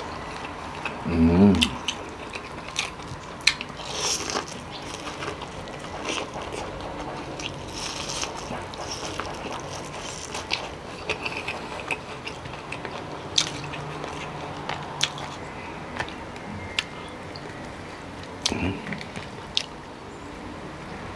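Close-miked eating sounds: chewing, biting and wet mouth smacks, with frequent sharp clicks and crackles as cooked king crab legs and shell are handled and pulled apart. A short hummed voice sound about a second in is the loudest moment.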